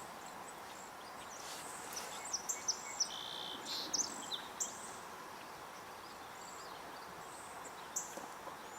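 Faint summer outdoor ambience: a bird gives a run of short, high chirps about two to five seconds in, and one more brief note near the end, over a steady high insect hum.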